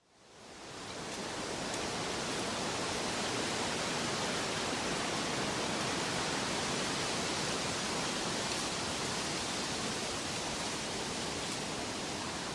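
Steady, even rushing of water, fading in from silence over the first second or so.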